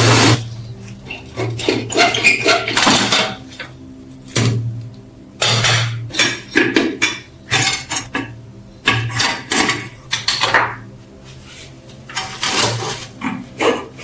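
Metal parts clinking and clattering as they are handled, in an irregular run of knocks and scrapes.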